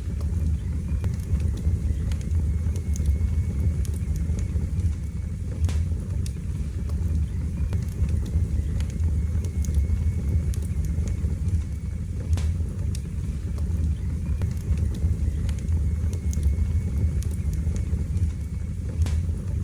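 Wood fire burning in a fireplace: a steady low roar of flames with scattered sharp crackles and pops, and a faint thin whistle that comes and goes.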